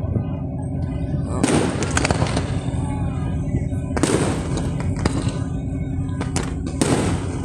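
Aerial fireworks bursting: three loud booms about two and a half seconds apart, each trailing off over a second or so.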